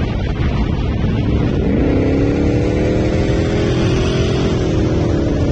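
Wind and road rumble on a camera mounted on the outside of a vehicle at highway speed. An engine note rises about a second and a half in, then holds steady under acceleration.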